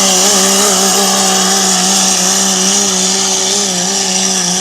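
Pulling truck's engine held at high revs, a loud steady tone that wavers slightly and eases down a little near the end.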